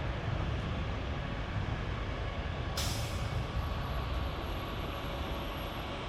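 Low, steady rumble of a jet airliner's engines. About halfway through a sudden hiss comes in, followed by a faint high whine.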